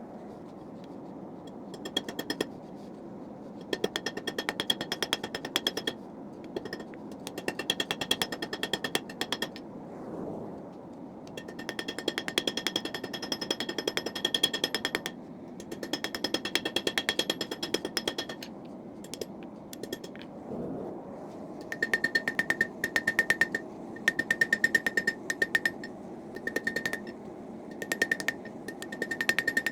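Railroad spike being forged: runs of rapid hammer blows on the hot steel, each run lasting a second or two with short pauses between, the steel ringing with a high tone, over a steady rushing background.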